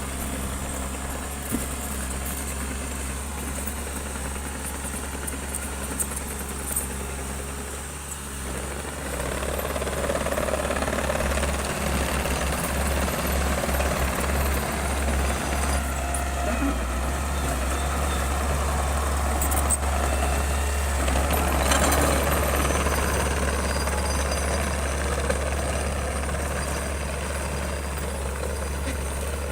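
Heavy diesel earthmoving machine running steadily, then working harder under load from about nine seconds in, with a few short clanks in the first seven seconds.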